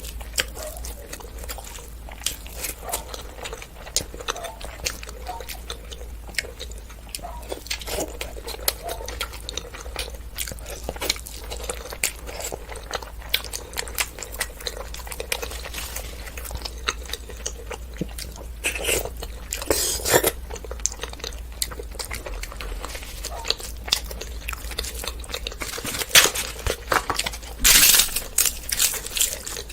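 Close-miked chewing and mouth sounds of someone eating basmati pulao and mutton curry: a steady run of wet smacks and clicks, with a few louder noisy bursts in the second half.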